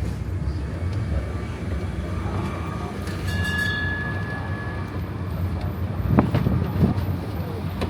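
Rubber-tyred tourist road train running along the road, with a steady low engine and rolling rumble from the carriages. A brief high-pitched tone sounds about three seconds in.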